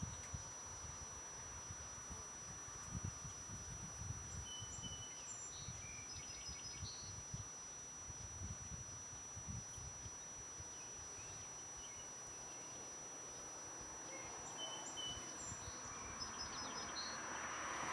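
Quiet outdoor ambience with a songbird singing the same short phrase of high chirps twice, about ten seconds apart, over a steady thin high-pitched tone and a low rumble. Near the end a rushing noise grows louder as a vehicle approaches.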